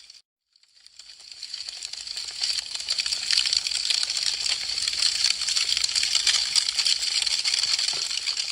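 Wood fire crackling with dense, rapid pops and snaps. The sound cuts out for a moment right at the start, then fades back in over the next two seconds or so.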